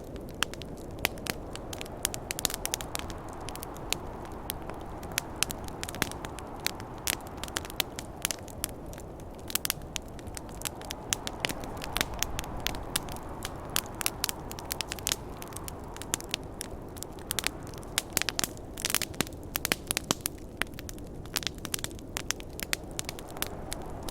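Wood campfire crackling, with frequent sharp pops and snaps over a steady low rushing noise of snowstorm wind.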